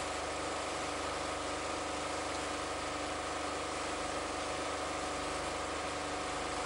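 An engine idling steadily: a constant, even drone with a few steady tones and no change in speed.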